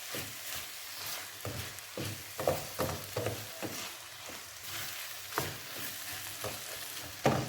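Spiced greens stuffing sizzling in a frying pan as it is stirred, with a spoon scraping and knocking against the pan at irregular intervals, the loudest knock just before the end.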